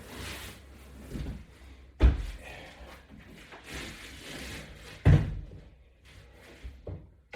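Two heavy thuds about three seconds apart, with softer rustling between them.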